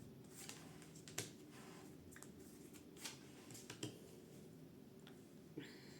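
Faint, scattered clicks and taps of tarot cards being handled, shuffled and laid down, the sharpest about a second in, over quiet room tone.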